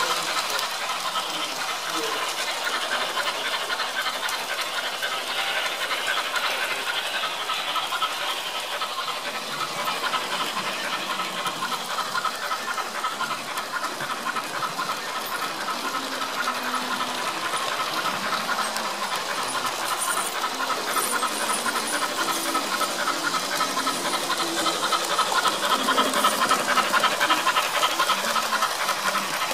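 Sound decoder in a Märklin HO BR 39 steam locomotive model playing fast, steady steam chuffing with hiss through its small speaker, getting louder near the end.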